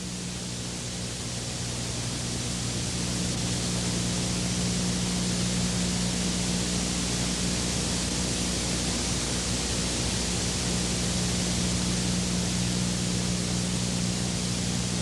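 Steady, even hiss with a low electrical hum underneath, swelling over the first few seconds and then holding level.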